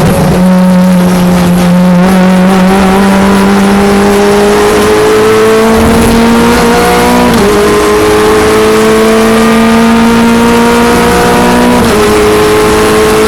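Renault Clio Cup race car's engine accelerating hard, its pitch climbing slowly through each gear. It shifts up about seven seconds in and again near the end, the note dropping and then rising again each time.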